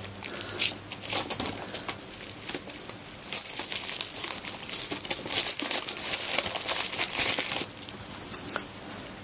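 A plastic MRE toaster-pastry (Pop-Tart) wrapper being crinkled and torn open by hand. There is dense crackling for about seven and a half seconds, then it stops.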